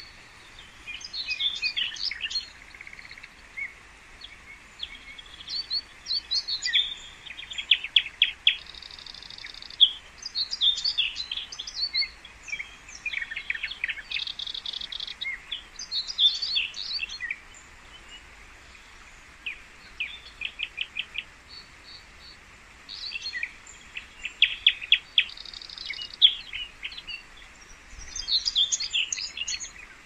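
Songbirds singing: short phrases of quick chirps and trills repeat every couple of seconds over a steady faint background hiss.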